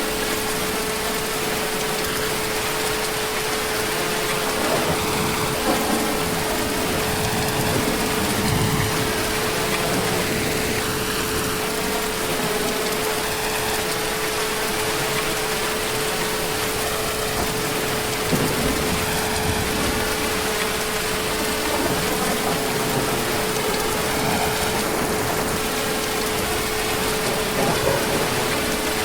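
Heavy rain falling steadily as an even hiss, with a constant steady hum running under it.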